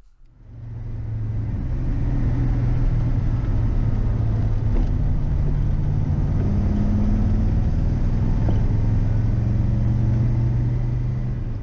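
1966 Oldsmobile 442's 400 cubic-inch V8 with three carburetors running steadily under way, a low drone mixed with road and wind noise, heard from inside the cabin; it fades in over the first couple of seconds.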